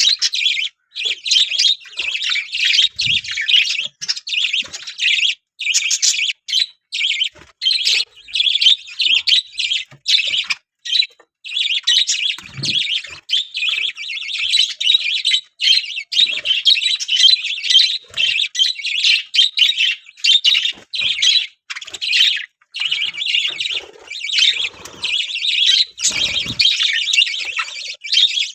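A flock of budgerigars chattering and chirping continuously in a dense, high-pitched chorus, with only brief pauses.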